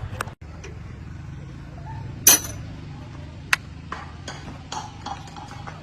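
A few sharp clinks and knocks, the loudest about two seconds in and another sharp one about a second later, over a steady low hum.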